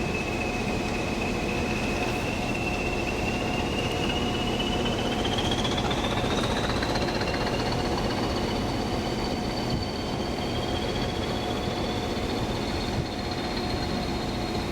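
A train running through the station with a high whine that climbs in pitch a few seconds in and then holds steady. A lower steady hum sits beneath it.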